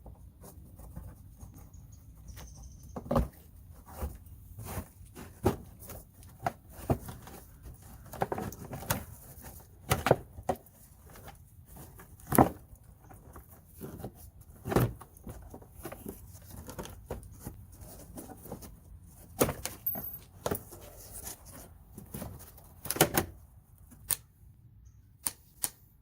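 Irregular clicks and knocks of hand tools and plastic trim being worked loose from the car's fender well liner, with a few sharper knocks now and then.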